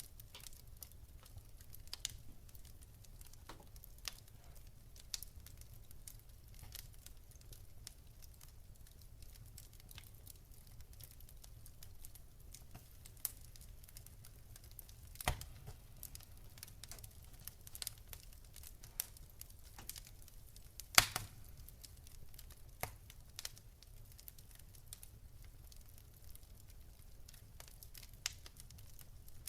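Fire crackling: irregular small snaps and pops over a faint low rumble, with a couple of louder pops about halfway through and again around two-thirds in.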